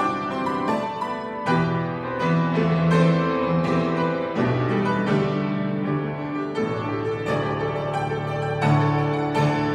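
Instrumental keyboard music: chords and a melody played on a piano-like keyboard instrument, at a steady level.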